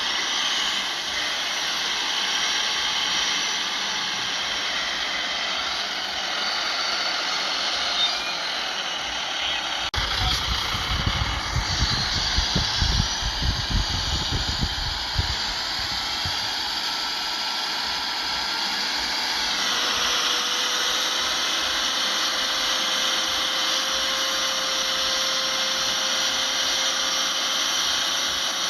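Heavy earthmoving machinery running steadily, with low rumbling thumps about ten to sixteen seconds in and a change in the engine note around twenty seconds in.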